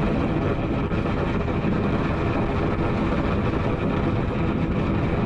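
Wind rushing over the microphone of a Harley-Davidson motorcycle at highway speed, with the V-twin engine running steadily underneath.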